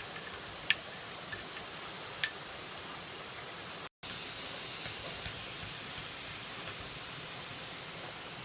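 A steady high hiss with thin, held high-pitched tones, with two sharp clinks in the first few seconds like a spoon striking a bowl; the louder clink comes about two seconds in.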